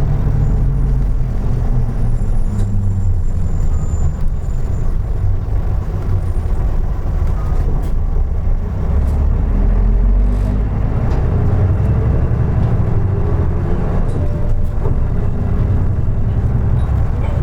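Running sound inside a 2003 Isuzu Erga Mio (KK-LR233J1) diesel city bus on the move: a steady low engine and drivetrain rumble, its pitch rising and falling with speed.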